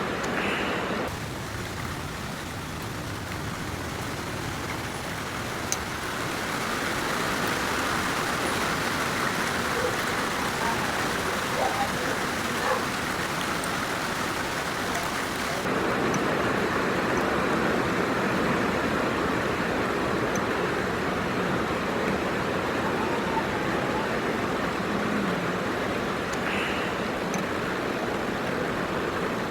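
Heavy rain pouring down, a steady dense hiss. Its tone changes abruptly about a second in and again about halfway through.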